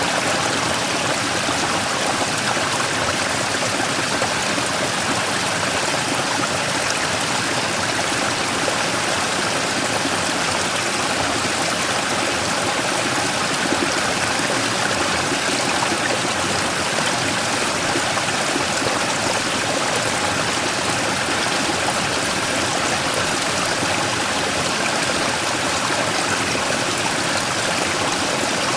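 Mountain stream rushing and splashing over a large rock, a steady, even water noise with no breaks.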